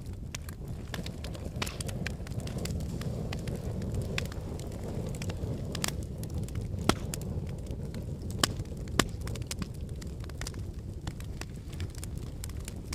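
Logs burning in a fireplace: a steady low rush of flame with scattered crackles and sharp pops. The loudest pops come about seven, eight and a half, and nine seconds in.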